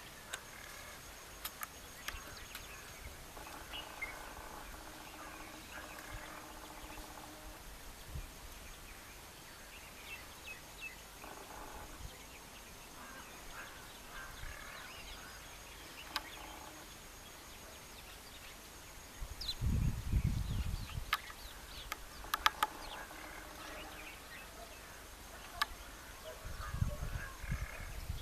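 Birds calling outdoors over a steady background hiss, including one held, pitched call a few seconds in and scattered short chirps. A few sharp clicks are heard, along with two bursts of low rumble later on.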